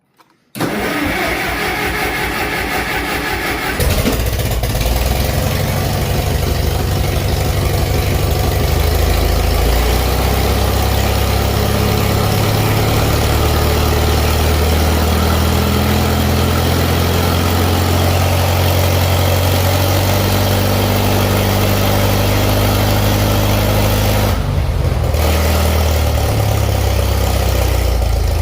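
McCormick W-9 tractor's four-cylinder gasoline engine cranking on the starter for about three seconds, then catching and running, its speed rising and falling, with a brief dip near the end. It is running on all cylinders again after the plug of a cylinder that wasn't firing was cleaned, and sounds a lot better.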